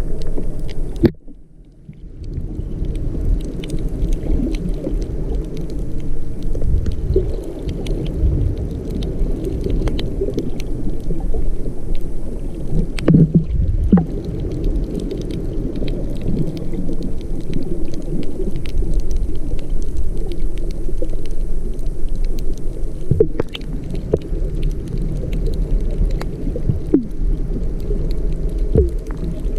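Muffled underwater noise picked up by a submerged camera: a steady low rumble of moving water, with scattered faint clicks and a few short rising chirps.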